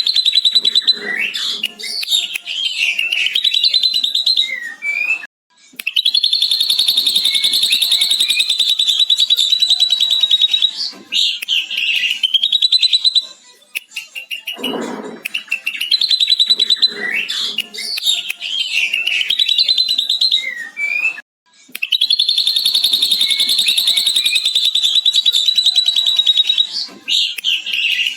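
Ashy drongo singing: varied whistled notes and a long, rapid chattering trill lasting several seconds, its mimicry of a lovebird's long 'ngekek' chatter. The same sequence of phrases repeats about halfway through.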